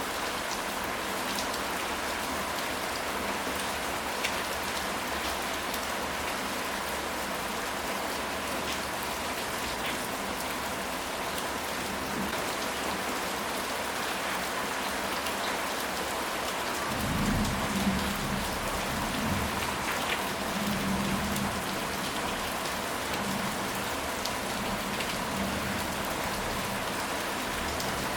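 Steady rain falling, with a low roll of thunder rumbling for a few seconds about two-thirds of the way through.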